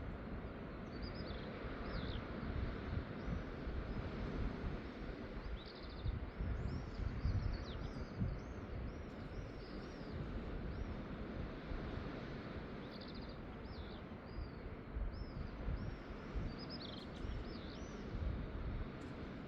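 Small birds chirping, many short high calls in quick clusters, over a steady low rushing noise of the outdoors that is heaviest in the bass.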